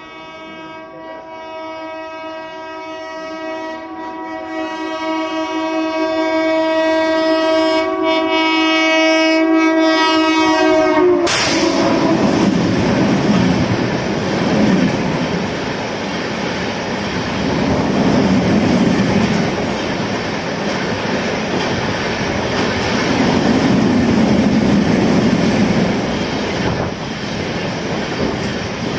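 WAP7 electric locomotive sounding its horn in one long continuous blast that grows louder as it approaches, dipping slightly in pitch just before it cuts off about eleven seconds in. Then the loud rush and rattle of the train running past at full speed, with wheels clattering over the rail joints and swelling and fading every few seconds.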